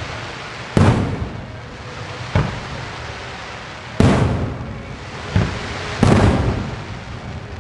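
Aerial firework shells of a starmine (No. 5, about 15 cm) bursting overhead: five sharp booms at irregular intervals, each trailing off in a long rumbling echo.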